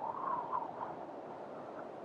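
Snow-storm wind howling: a steady rush with a wavering whistle that rises and bends in the first second, then settles back into the rush.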